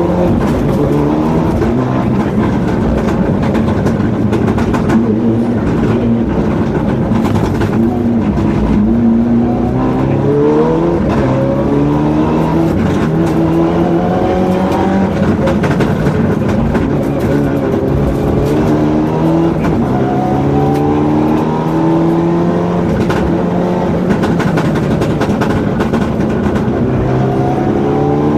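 Mitsubishi Lancer Evo 7's turbocharged four-cylinder rally engine heard from inside the cabin under hard driving. The revs climb and fall back again and again as the car accelerates and shifts gear.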